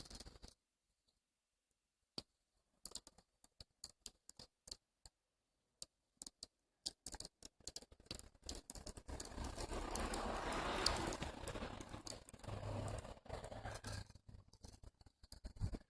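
Irregular ticks and crackles, sparse at first and then denser, with a rush of wind on the microphone swelling in the middle and fading again.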